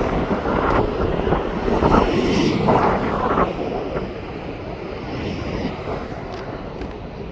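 Jet aircraft engine noise with wind buffeting the microphone in a strong crosswind. It swells over the first three seconds or so, then eases to a steadier, lower rumble.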